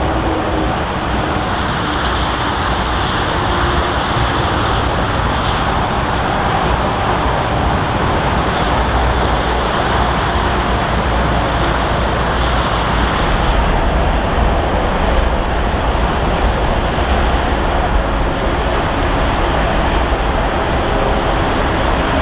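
Airliner jet engines: a loud, steady rush of noise as a widebody jet passes close by.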